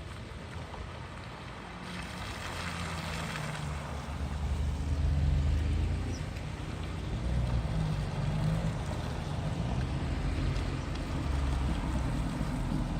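Car engine running at low revs, its drone wavering in pitch and swelling louder about four seconds in.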